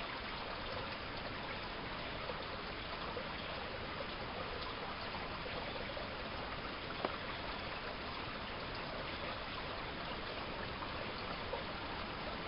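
Running water from a small stream, a steady even rushing, with a single faint click about halfway through.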